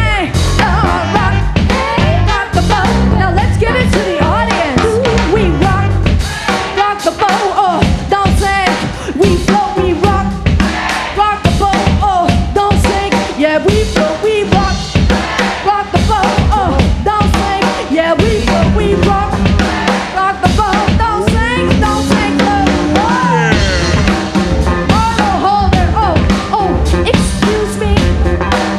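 Live rock band playing an instrumental break: a drum kit beats steadily with bass drum, snare and rimshots under a pulsing bass line and other pitched instruments.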